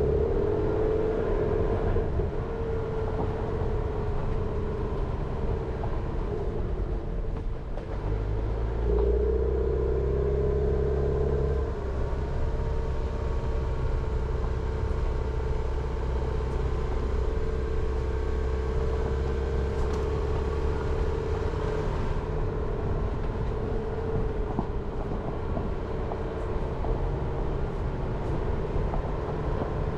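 Jeep Renegade driving on a mountain forest road: steady engine and tyre rumble, with a louder low rumble from about eight to twenty seconds in.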